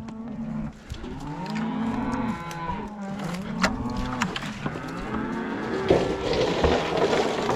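Cattle mooing: several long calls one after another, some overlapping, with a rougher, noisier call near the end and a few sharp clicks among them.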